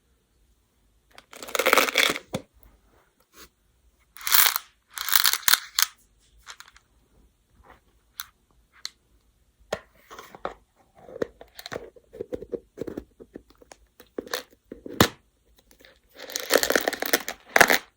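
Go (baduk) stones clattering and rattling against each other in several bursts, with scattered single clicks of stones between them.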